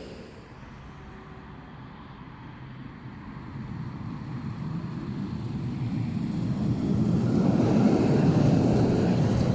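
Tram running with a low rumble that grows steadily louder from about three seconds in.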